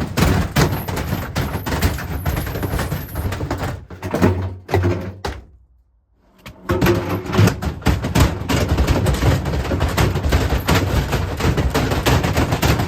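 Washing machine clattering and banging rapidly and without let-up, heavy objects knocking inside its spinning drum. The racket breaks off for about a second around the middle, then resumes.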